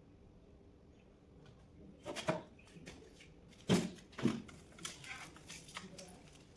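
Irregular knocks and clicks, as of things being handled and set down. A quiet stretch comes first, then a pair of knocks about two seconds in, two louder thuds a little past the middle, and lighter ticks after them.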